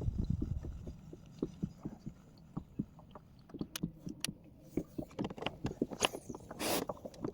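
Irregular small knocks, clicks and low thumps of gear and movement in a kayak, with a short rushing burst near the end.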